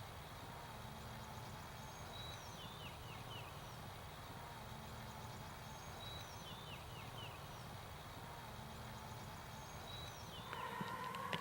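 A bird singing a short phrase of a few quick, descending high chirps, repeated about every four seconds over a low steady outdoor hum. A few faint knocks come in near the end.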